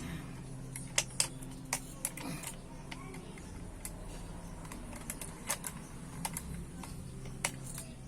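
Scattered sharp clicks and light knocks of starter-motor parts being handled during reassembly, about a dozen at uneven intervals, over a steady low hum.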